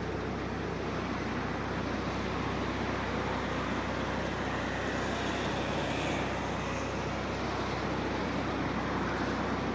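Alfa Romeo 147's exhaust through an aftermarket FOX muffler, the engine idling steadily with a low drone.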